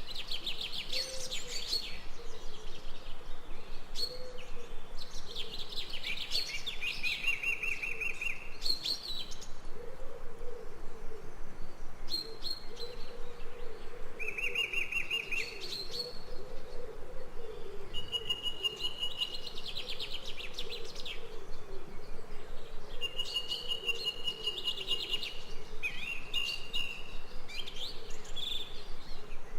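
Several birds singing and calling over and over: quick chirping runs and trills held on one pitch, each lasting about a second, with a fainter low wavering call underneath through the middle.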